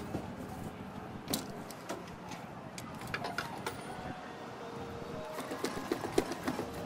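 Scattered sharp clicks and light knocks over a steady background hum: one about a second and a half in, three a little past halfway, and a quick cluster near the end.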